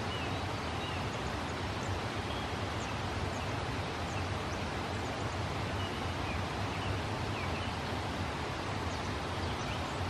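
Faint, short, high bird chirps every second or so over steady outdoor background noise with a low rumble.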